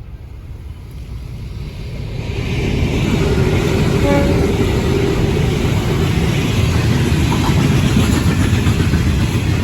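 A grain train hauled by three 81 class diesel-electric locomotives approaching and passing, growing louder over the first three seconds into a steady loud rumble of engines and rolling wagons.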